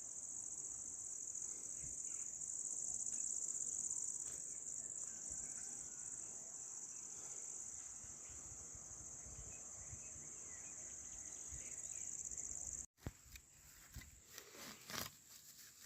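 Steady high-pitched insect chorus, a continuous chirring. About thirteen seconds in it cuts off abruptly and gives way to scattered rustles and sharp clicks.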